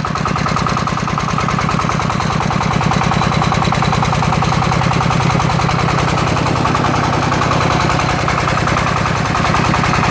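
Single-cylinder diesel engine of a two-axle công nông farm vehicle running steadily with a rapid, even chugging.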